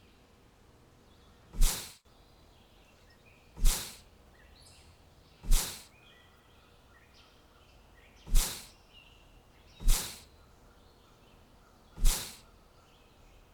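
Six short, loud swishes of a game sound effect, each sudden and fading within half a second, about every two seconds. Faint bird chirps sound between them.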